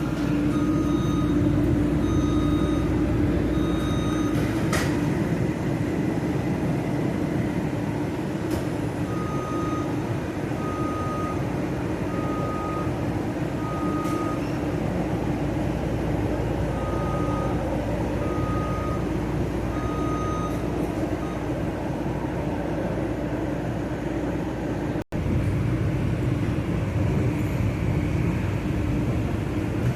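Steady hum of a Long Island Rail Road electric train, with a single-pitched electronic beep repeating about once a second in three runs of four or five beeps. The sound drops out for an instant near the end.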